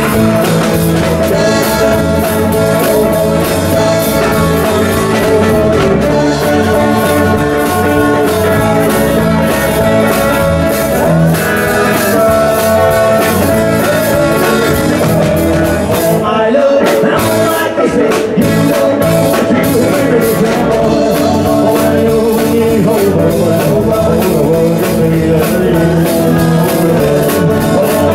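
Rock and roll band playing, guitar-led with a singer, loud and continuous, with a brief thinning of the sound about two-thirds of the way through.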